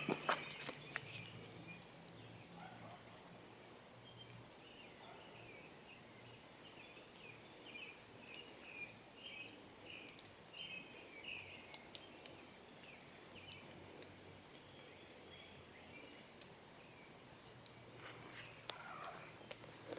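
Faint background ambience with a bird singing a string of short, varied notes through the middle. A few sharp clicks come near the start and again near the end.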